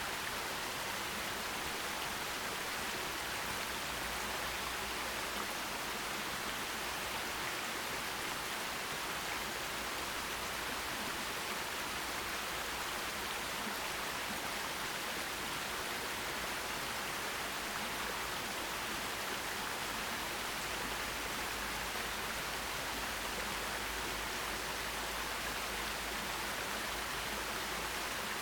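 Forest stream running steadily: an even, unbroken rush of water with no separate events standing out.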